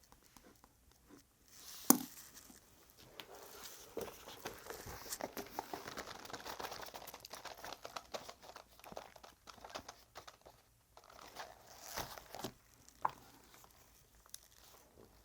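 Paper rustling and crinkling as it is handled, with a sharp tap about two seconds in and more bursts of rustling later on.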